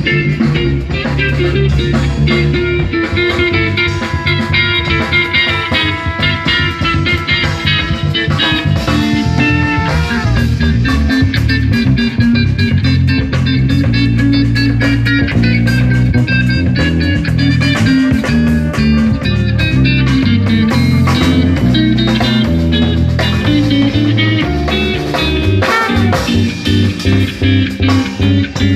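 Live instrumental jazz quintet playing a blues-style number, with guitar prominent over bass and drums.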